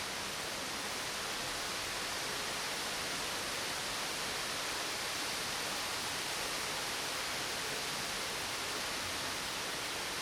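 Steady heavy rain falling, an even hiss with no thunder or other sudden sounds.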